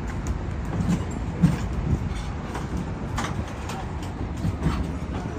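Low, steady rumble of a motor vehicle, with a few short knocks, the sharpest about one and a half seconds in.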